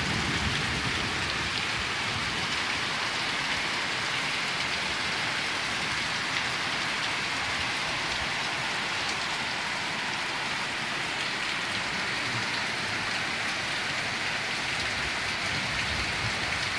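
Heavy rain falling steadily, with water streaming off the roof eaves; an even, constant hiss.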